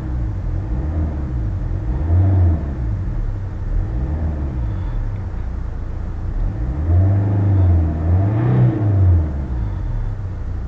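Saab's Z19DTH 1.9-litre turbodiesel engine heard from inside the cabin while driving, its note rising and falling as the car accelerates, over a steady rumble of road noise. The engine is pulling on a test drive after the injector 3 plug fault (P0203) was cleaned and cleared, and it seems to have worked.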